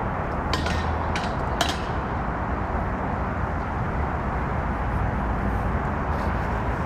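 Passing train's steady rumble and rail noise, with a few sharp metallic clicks in the first two seconds.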